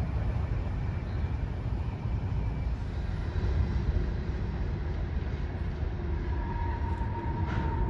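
Freight cars of a CSX grain train rolling past on the rails with a steady low rumble. A faint high tone comes in near the end, along with one brief click.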